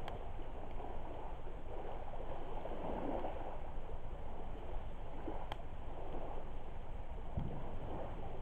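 Driftwood campfire burning with a steady rushing hiss, broken by a sharp crackle right at the start and another about five and a half seconds in.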